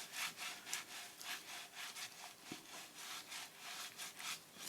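Hand rubbing back and forth over cling film laid on a paper page glued down with matte medium, pushing out wrinkles: a faint, even run of quick swishing strokes, several a second.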